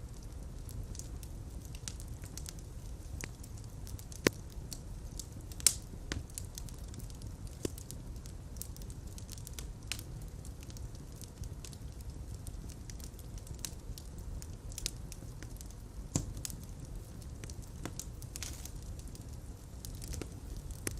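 Fire burning in a fireplace: a steady low rumble of flames with irregular crackles and pops, a few of them sharper and louder.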